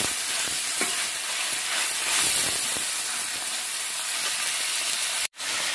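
Tomatoes, onions and chillies sizzling steadily in hot oil in a steel kadai, with a few light strokes of a steel ladle stirring them. The sound cuts out abruptly for a moment near the end.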